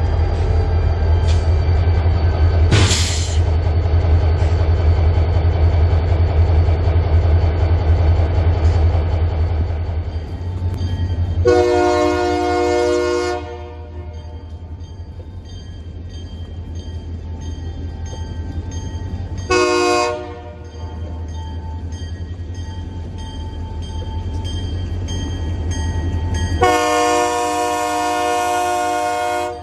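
Diesel freight locomotives running with a heavy low rumble, with a brief sharp noise about three seconds in. The lead locomotive's air horn then sounds three times: a long blast, a short one, and another long one near the end.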